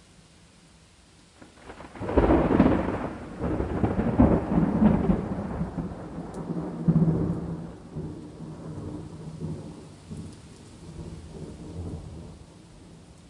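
A thunderclap: a sudden loud crack about two seconds in, then a rolling rumble that fades away over the next several seconds. Faint steady rain runs underneath.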